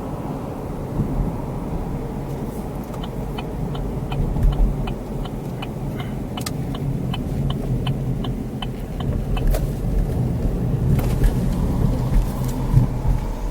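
Car driving, heard from inside the cabin: a steady low road and engine rumble, with a light, even ticking about three times a second through the middle.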